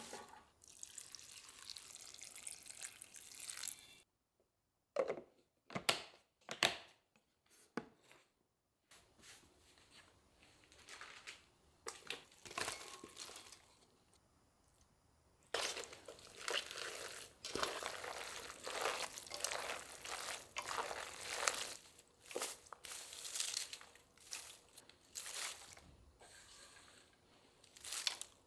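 Kitchen handling sounds in short edited cuts: crinkling packaging, water and brief knocks of containers or utensils.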